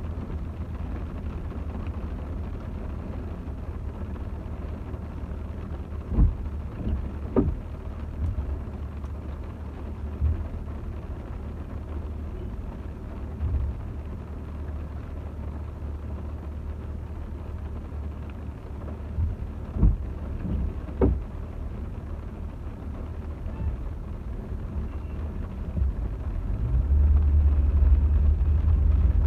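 A car driving in heavy rain: a steady low road rumble with a few sharp thumps, growing louder near the end.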